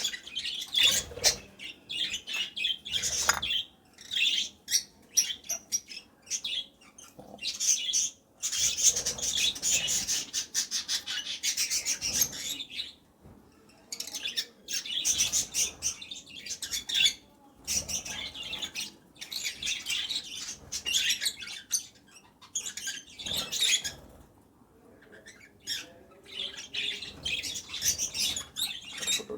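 Lovebird chick's begging calls while being hand-fed formula: rapid, raspy, high-pitched squeaking in runs of several seconds, with short pauses between them.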